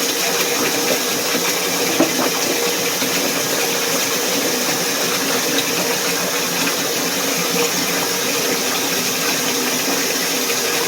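A small motor running steadily: an even hum with a held tone over a constant hiss, with a couple of faint knocks.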